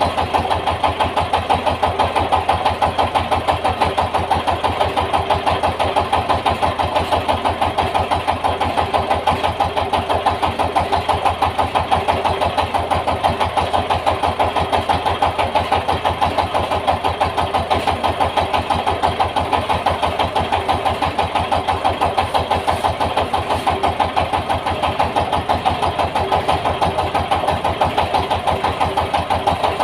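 Yanmar TS 230 single-cylinder diesel engine running at a steady speed with an even, rapid chugging beat while it drives a rice milling machine.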